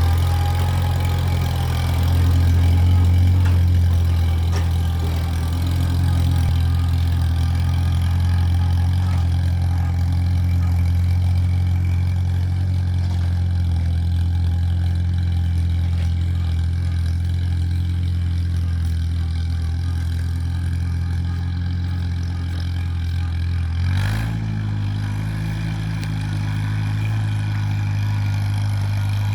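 Allis-Chalmers C tractor's four-cylinder engine running steadily soon after a cold start. Near the end, after a short click, the engine speed steps up a little and holds there.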